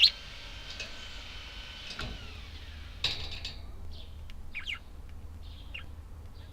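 Budgerigars chirping and whistling: a sharp, loud chirp at the start, held whistled notes that slide down about two seconds in, then scattered short chirps.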